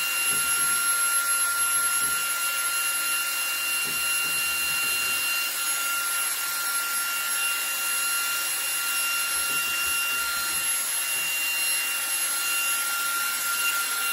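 eufy HomeVac H30 Mate cordless handheld vacuum running steadily on max power: a high, even motor whine over the rush of suction air, with faint rubbing as the brush works against a vent grille.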